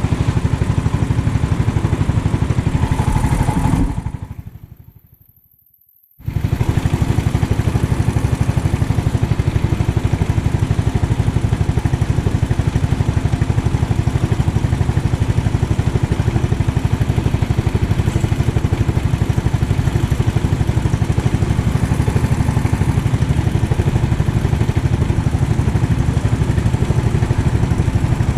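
A 390cc kart engine running, heard onboard as a steady low, rapidly pulsing drone. About four seconds in, the sound fades away almost to silence and then cuts back in suddenly about two seconds later.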